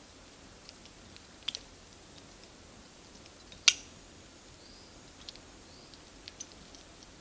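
Campfire of firewood and cut charcoal crackling: scattered small pops, with one sharp, loud snap a little past halfway.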